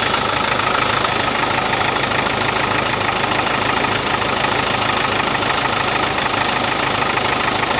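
Engine idling steadily and loudly, an engine that overheated after losing its coolant; its running is what the owner calls not normal.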